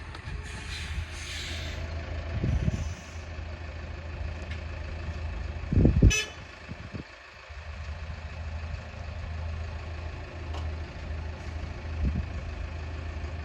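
Heavy vehicle engine running with a steady low hum. There are two heavy knocks, about 2.5 s and 6 s in, and the second is followed at once by a very short high squeal.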